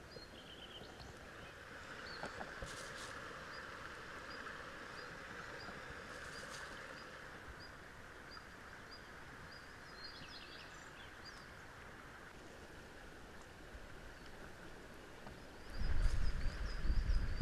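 A bird repeating a short, high chirp about once a second over steady outdoor background noise. A loud low rumble comes in near the end.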